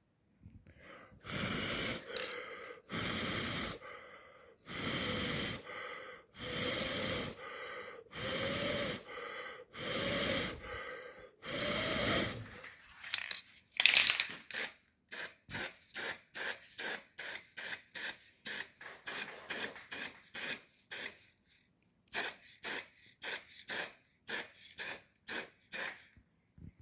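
Spray hissing in repeated bursts: about six held bursts of roughly a second each, then many short quick bursts, two to three a second.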